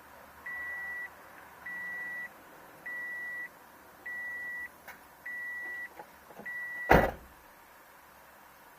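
A car's warning chime beeping steadily, one even tone about every 1.2 seconds, six times. About seven seconds in a loud thump, a car door shutting, and the chime stops with it.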